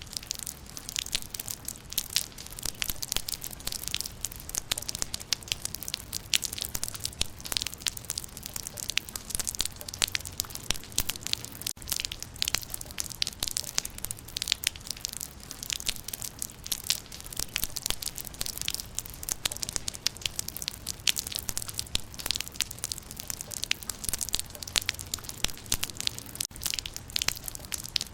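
Rain falling on leaves: a dense, irregular patter of drops striking foliage.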